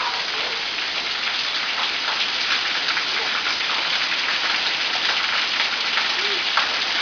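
Heavy rain falling steadily, a dense patter of drops splashing on surfaces.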